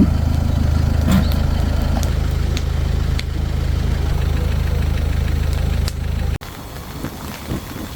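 Ssangyong Rexton Sports pickup's diesel engine idling steadily, then switched off about six seconds in.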